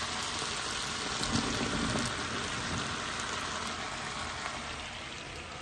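Diced chicken frying in a large pan with a steady sizzle that eases off slightly, as chopped zucchini, tomato and spring onion are slid in from a cutting board.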